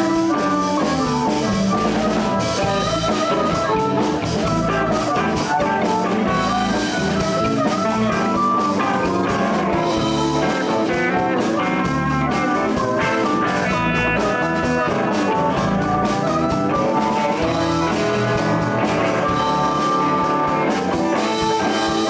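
Live blues band playing an instrumental break: guitar leading over bass and a drum kit.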